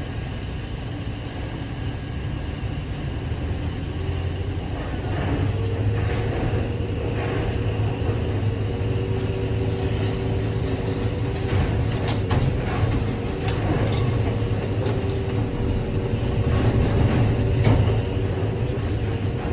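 Idromec T 650 CLS scrap metal shear baler working: a steady low machine drone, joined about five seconds in by a steady hum, with scattered metallic clanks and knocks from the scrap.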